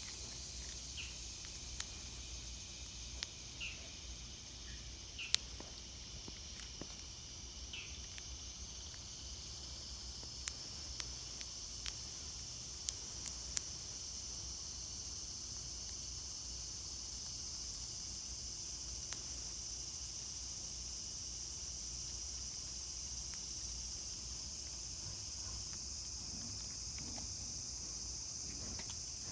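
A steady, high-pitched chorus of insects shrilling outdoors, growing louder about halfway through. It is joined by a few short chirps early on and scattered sharp clicks.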